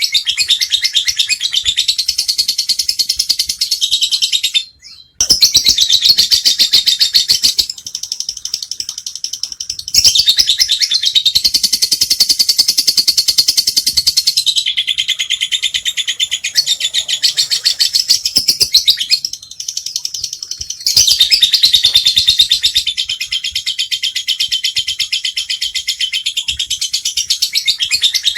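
Lovebird (Agapornis) singing 'ngekek': a long, rapid, high chattering trill of many chirps a second. It breaks off briefly about five seconds in, runs weaker for a couple of seconds, and dips again before picking back up.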